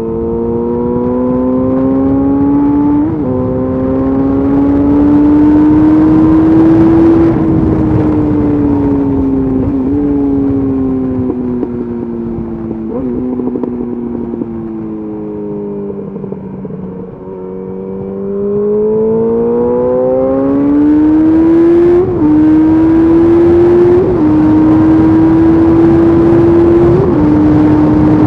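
Yamaha FZ8's inline-four engine through a LeoVince exhaust with the dB killer removed, pulling under throttle while riding. The engine pitch climbs and breaks with gear changes, falls away as it slows in the middle, then rises again and steps through several quick upshifts near the end.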